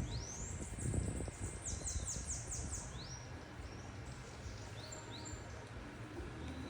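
Bananaquit singing: a high, thin rising note, then a quick run of about six sweeping notes, and a few short high notes later, over a low steady background rumble.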